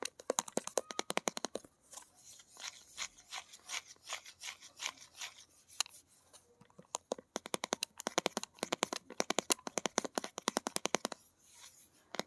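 Fingernails tapping quickly on hard objects, with some scratching, in fast runs of crisp taps and a brief pause about halfway through.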